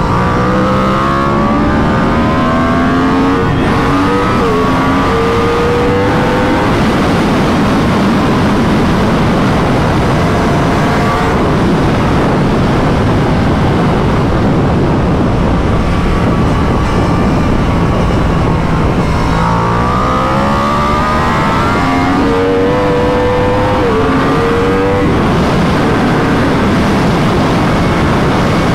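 2021 Yamaha R1's crossplane inline-four, through an Akrapovic full titanium exhaust with its dB killer fitted, accelerating hard twice at speed: the pitch climbs, dips briefly at a gear change and climbs again, then eases off in between. Heavy wind rush on the microphone runs under it throughout.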